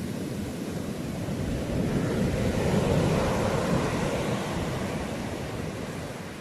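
Sea waves breaking: a rushing surge swells about two seconds in, peaks near the middle and slowly washes out.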